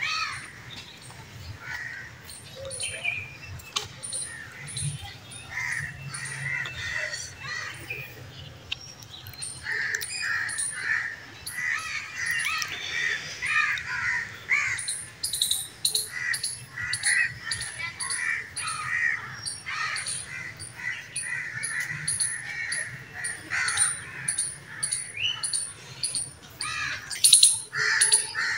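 Birds calling: many short calls repeated throughout, with a higher, thin chirp repeating many times alongside, and a brief louder sound near the end.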